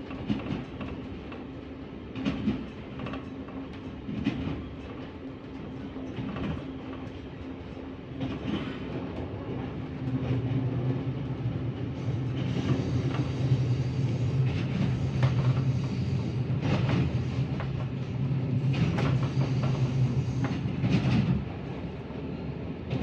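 Train running on rails, with a steady low engine hum and scattered clicks and knocks of the wheels over the track. About ten seconds in a stronger low drone joins and the sound grows louder.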